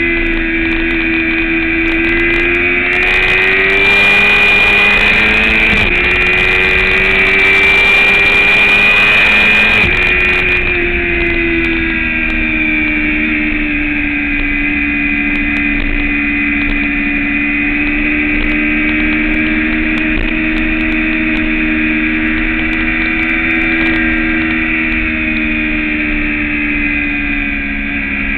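Motorcycle engine heard from an onboard camera on a track day, with wind rush. It pulls harder with rising pitch for several seconds and steps through an upshift partway along. About ten seconds in it backs off and then runs steadily at a lower pitch.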